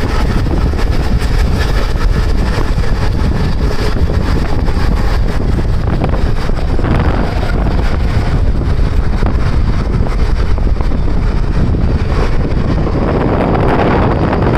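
A moving train running steadily at speed, its rumble mixed with wind rushing over the microphone.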